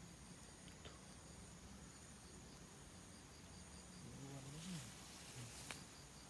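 Faint insects chirping in the background: a steady high trill with a short high chirp repeating at an even pace. Two sharp clicks, one about a second in and one near the end, and a short low wavering sound a little past halfway.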